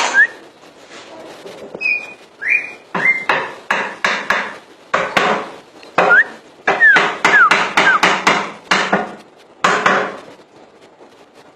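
Cucak ijo (green leafbird) singing in a loud, busy stretch: a rapid run of harsh, rasping chattering notes broken by short sliding whistles.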